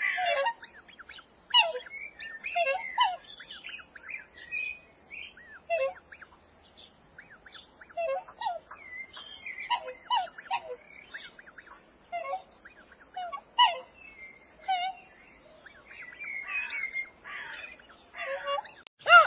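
Birds chirping: many short, sharp calls in an irregular run, some overlapping.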